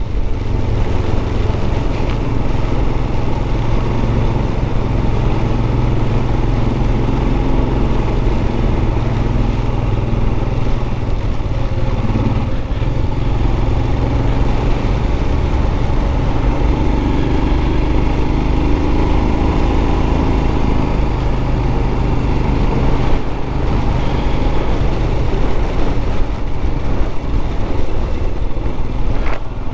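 Royal Enfield 411 cc single-cylinder motorcycle engine running steadily under way, with wind and heavy rain loud on the rider's microphone.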